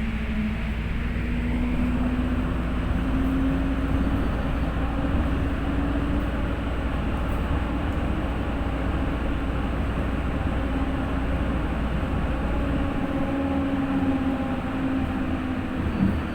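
FGV series 4200 tram running with a steady hum. Its tone drifts slightly up and down, and a deep rumble underneath stops about 13 seconds in.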